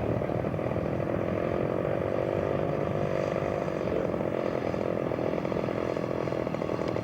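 Radio-controlled scale model airplane engine running steadily, its pitch holding even.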